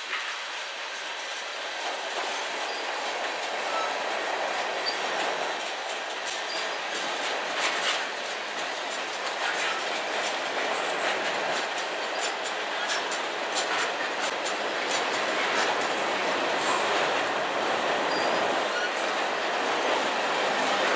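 Freight cars of a passing manifest train (gondolas, lumber flatcars and tank cars) rolling on steel rails: a steady rush of wheel noise with rapid clicks and clacks over the rail joints. Now and then there is a brief faint wheel squeal.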